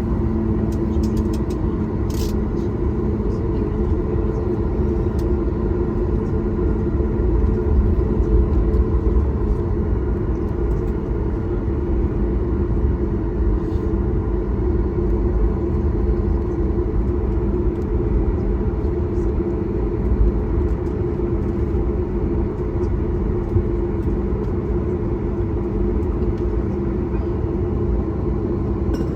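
Steady rumble of an airliner's engines and airflow, heard from inside the cabin during takeoff, with a low hum and a few steady tones.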